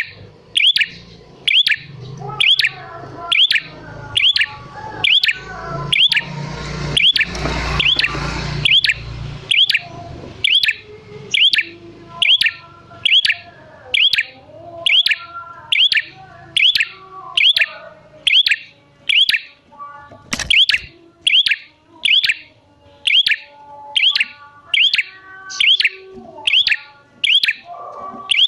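A prinia (prenjak) calling one sharp chirp again and again, about one and a half a second, with other birds singing softly behind it. A rush of hiss rises and fades near the middle.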